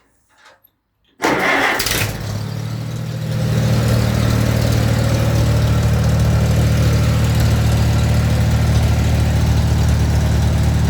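An old farm tractor's engine starting on a cold morning: it catches about a second in, then runs on at a steady idle that firms up a couple of seconds later.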